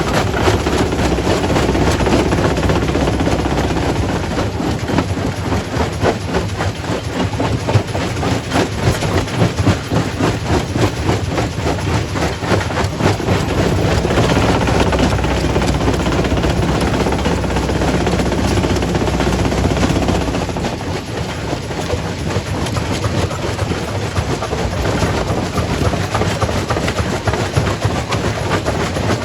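Quarry primary rock crusher running and crushing stone, a loud dense clatter of rock knocking and rattling. A low drone under the clatter drops away about two-thirds of the way through.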